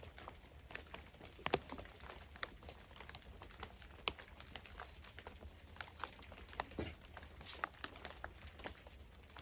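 Light, irregular patter of scattered drops, sharp little taps at uneven intervals, over a faint low rumble.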